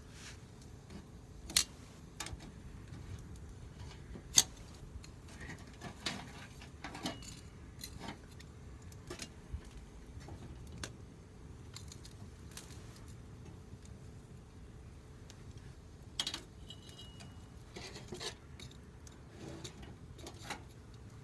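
Wood fire burning in a campfire stand, with irregular crackles and sharp pops over a steady low hiss. The loudest snaps come about a second and a half in, at about four seconds and near the end, with a couple of brief thin high whistles.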